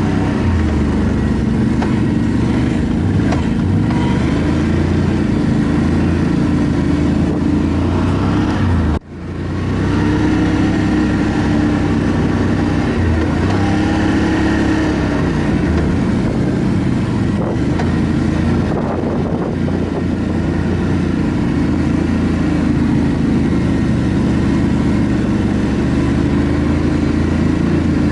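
ATV engine running while riding, its pitch rising and falling with the throttle. The sound drops out for an instant about nine seconds in, then comes straight back.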